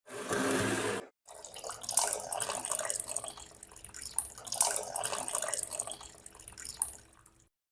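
Running water splashing unevenly, in two stretches: a short one-second burst, then about six seconds that stop abruptly near the end.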